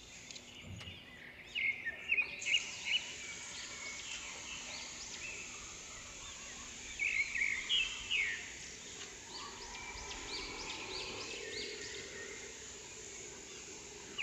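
Small birds chirping in clusters of short high calls, loudest about two seconds in and again around seven to eight seconds in, over a steady outdoor background hiss.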